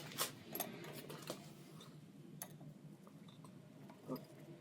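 A few scattered light clicks and taps of small hard parts being handled, over a faint steady low hum.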